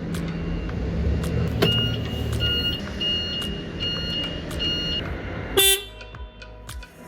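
Forklift engine running with a steady low hum. About a second and a half in, a run of evenly spaced high beeps from a warning beeper starts. Near the end a short horn toot sounds as the engine hum drops away.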